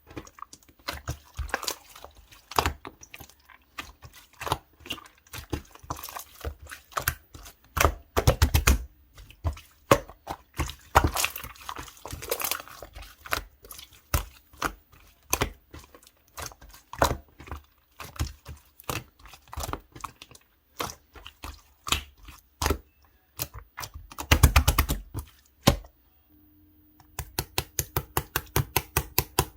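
Clear light-blue slime being squished and pressed by hand, making a stream of sticky clicks and air-bubble pops. After a short lull near the end, the clicks come in a fast, even run.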